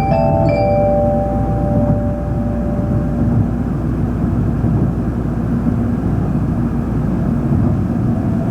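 Steady running rumble inside the passenger cabin of an N700-series Tōkaidō Shinkansen in motion. The last held notes of the train's onboard chime melody fade out in the first few seconds.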